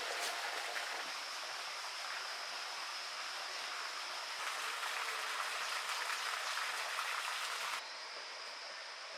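Steady rush of flowing stream water, with a thin high steady tone above it. The sound shifts abruptly about halfway through and drops quieter near the end.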